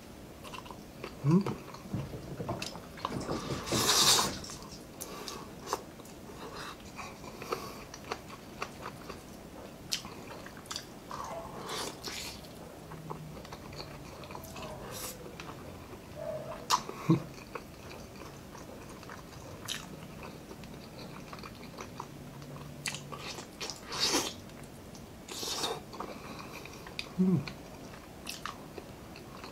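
Close-up mouth sounds of a man eating tender boiled pork and rice by hand: chewing and biting, with scattered sharper smacks and crunches and a couple of short hums.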